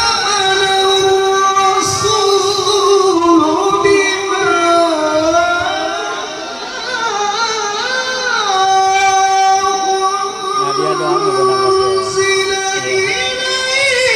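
A man's voice reciting the Quran in the melodic tilawah style, holding long high notes and sliding ornamentally between pitches.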